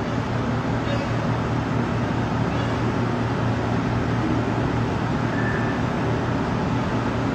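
Steady background rumble with a low, even hum, like vehicle or traffic noise; it holds at the same level throughout, with a faint brief tone about five seconds in.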